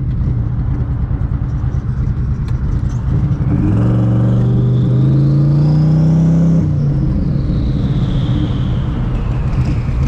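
Twin-turbo Mustang Cobra V8 running steadily, then accelerating hard for about three seconds, its note climbing with a rising turbo whine above it. The throttle shuts off suddenly and the turbo whine winds down as the engine settles back.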